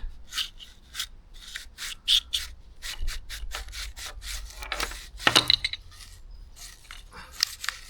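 Rope rubbing and scraping in a run of short strokes as the new pull cord of a Honda GX390's recoil starter is let back in under spring tension, sliding through the fingers and the starter housing.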